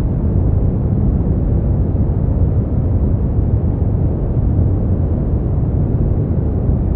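Steady brown noise: a deep, even rumbling hiss with most of its energy in the low end, unchanging throughout.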